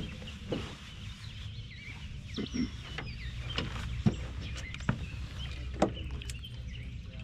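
Small birds chirping over a steady low hum, with a few sharp knocks from the canoe as a fish is played at the side.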